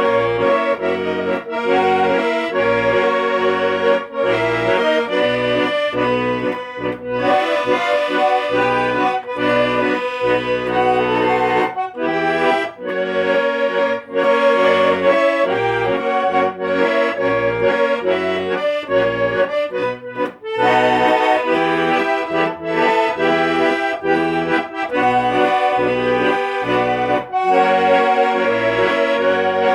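Accordion playing a tango melody over a pulsing bass accompaniment.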